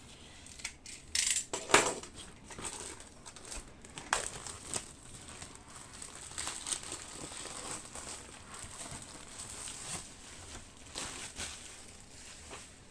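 Model ship kit packaging being handled and pulled open by hand: irregular crinkling and tearing rustles with sharp crackles, the loudest about one to two seconds in.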